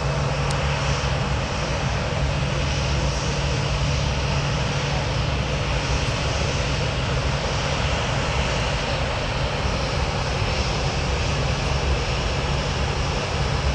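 Boeing 737 jet engines running steadily: an even rushing noise over a constant low drone, with no change in pitch or level.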